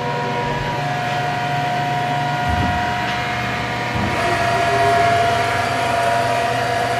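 Atrump B5-FC CNC bed mill's drives whining steadily while it runs an automatic tool touch-off. The whine shifts pitch slightly about a second in and again about four seconds in, and there are two low thuds partway through.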